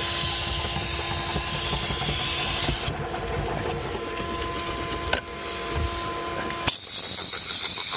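Optima steam cleaner running, a steady hiss over a low rumble with a steady whine. About seven seconds in the sound changes abruptly to a brighter, higher hiss.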